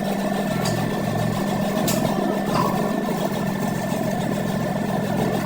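A workshop machine running steadily with a low hum and a faint constant high whine, with a few light clicks over it.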